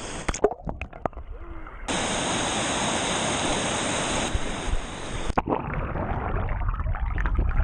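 Rushing water of a waterfall: a steady hiss for about three and a half seconds in the middle, starting and stopping abruptly. Before and after it come duller, muffled water and splashing sounds with a few knocks.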